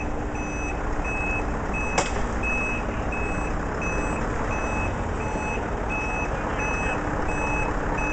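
Heavy truck's reversing alarm beeping at a steady, even pitch, a little under two beeps a second, over the low rumble of the engine. A single sharp click about two seconds in.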